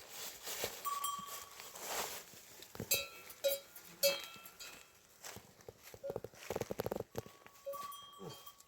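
Livestock bell clanking several times with a metallic ring, loudest about three to four seconds in, amid scuffling and knocks.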